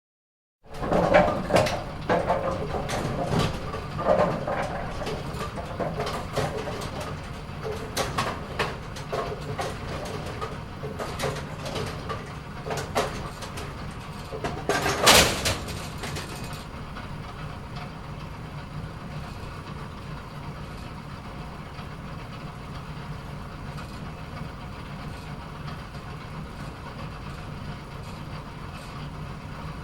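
Automatic bowling pinsetter at work: a run of irregular clattering and knocking as the pins are handled and set, with the loudest clatter about fifteen seconds in, then the machine running on with a steady low hum.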